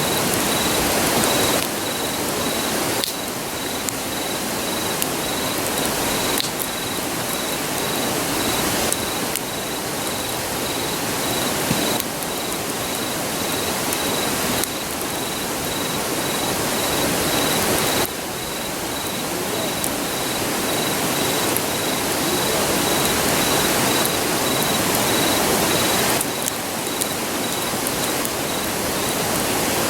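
Steady rushing of a river, with a cricket chirping in a fast, even pulse at a high pitch that fades out near the end. A few faint crackles from the campfire.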